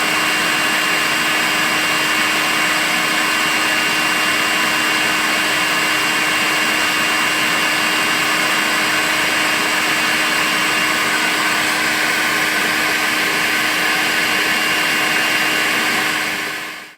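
Makita cordless vacuum cleaner running steadily: an even rush of air with a constant hum and a high whine from the motor, fading out near the end.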